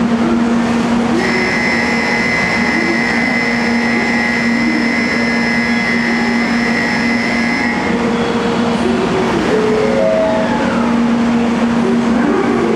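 Electric train running, heard from on board: a steady hum with a high whine held for several seconds. About ten seconds in come short stepping tones and a falling whine from the traction motors.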